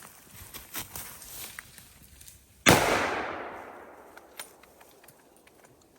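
A single rifle shot about two and a half seconds in, its report echoing and dying away over about a second and a half.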